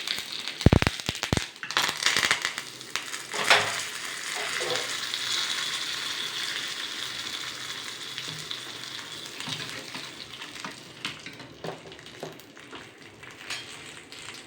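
Tadka sizzling in hot oil: mustard seeds, dried red chillies, curry leaves and asafoetida frying. Sharp crackling pops come in the first second or so, then a steady sizzle that slowly dies down.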